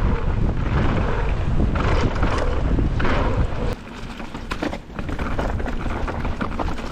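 Mountain bike riding downhill: wind buffeting the microphone with the rumble and rattle of the bike over the trail. A little under four seconds in the wind noise drops suddenly, leaving scattered clicks and knocks from the bike.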